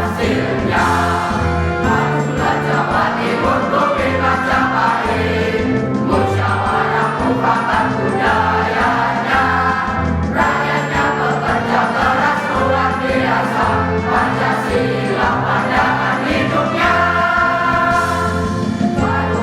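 Choir singing a march in unison over instrumental accompaniment with a steady beat.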